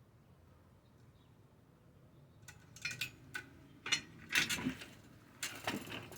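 A quiet stretch, then from about halfway in a run of sharp clinks and clatters, hard objects knocking together as they are handled.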